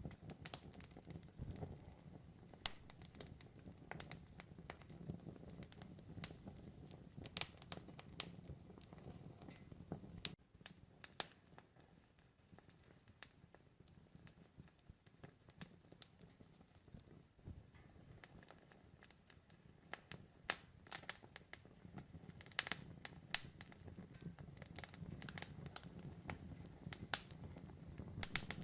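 Campfire crackling, with irregular sharp pops and snaps over a low rumble of the burning wood. The low rumble drops away abruptly about ten seconds in and slowly builds back.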